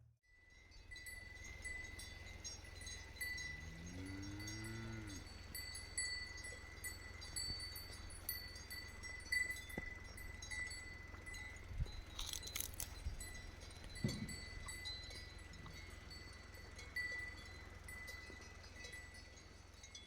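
Quiet village outdoor ambience with faint high tinkling and a steady thin tone. A farm animal gives one long low call, rising in pitch, about three seconds in.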